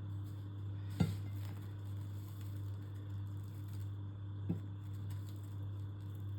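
A steady low hum runs throughout, with two light knocks, one about a second in and one about four and a half seconds in.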